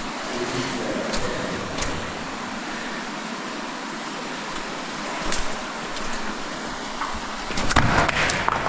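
Steady rush of an underground stream echoing in a cave, with scattered knocks and a louder burst of clattering and splashing about eight seconds in.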